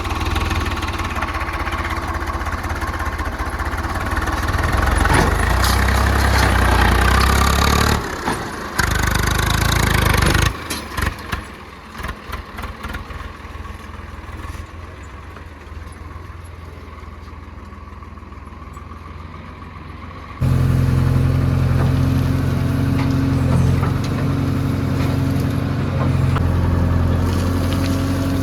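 Heavy diesel engines working: an engine pulling hard with revs rising, cut off abruptly about eight seconds in. It is followed by a quieter stretch with a few scattered knocks. About twenty seconds in, a loud, steady engine cuts back in suddenly.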